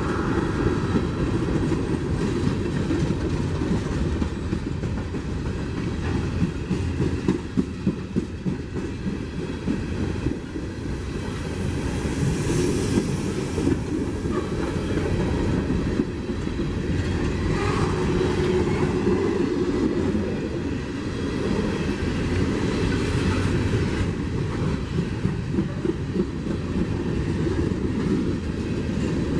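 Freight train cars rolling steadily past, their wheels clicking over the rail joints in a continuous clickety-clack with a heavy rumble.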